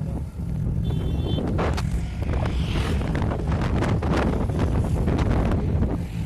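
Wind buffeting the microphone: a loud, steady low rumble with scattered crackles, as the flooded river is filmed in the open.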